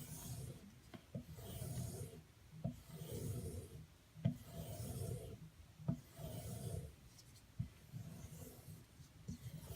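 Steel knife blade stroked repeatedly across a sharpening stone: even scraping passes about every second and a half, with a light click between strokes.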